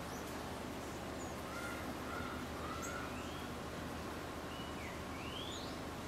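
Birds calling over a steady background hiss: a few short chirps about a second and a half in, then thin rising whistled notes near the end.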